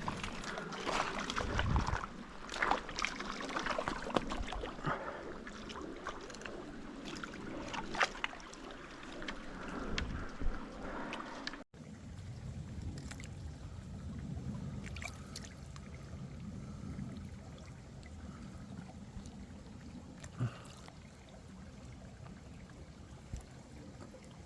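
Small mountain creek running and splashing, with scattered clicks and knocks close by in the first half. About halfway there is an abrupt cut, after which the water sound is steadier and lower.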